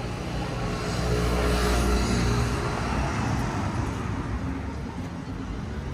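A motor vehicle passing close by on the street: a low engine rumble and tyre hiss that build to a peak about two seconds in, then fade away.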